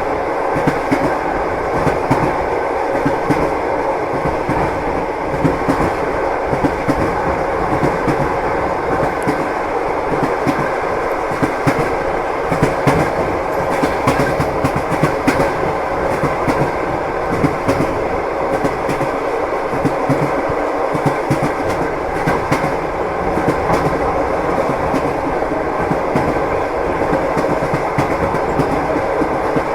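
Train wheels clattering over the rails, heard from inside a passenger carriage: a steady rumble with many sharp clicks.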